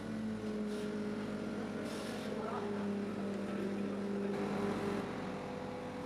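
Heavy machine engine running with a steady hum whose pitch steps down and up a few times, as under changing load.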